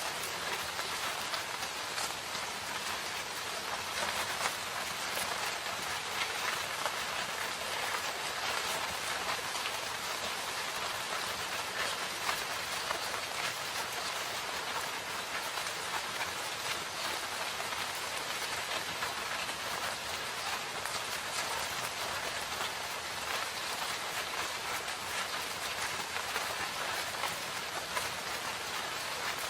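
Steady rain falling in a forest, an even hiss of rain with many individual drops pattering on surfaces.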